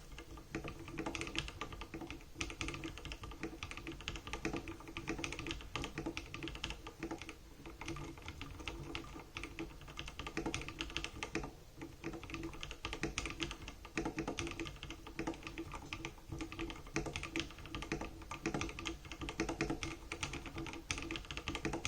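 Continuous fast typing on a custom-built mechanical keyboard with NovelKeys Cream linear switches: a dense, unbroken stream of keystroke clicks.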